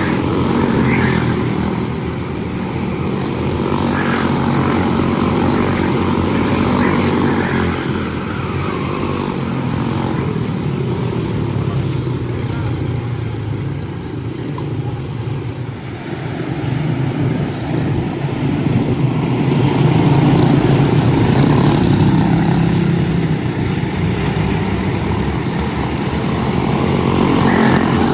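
Quarter midget race cars' small single-cylinder engines running at speed, the buzzing note rising and falling and the level swelling and fading as the cars lap the track.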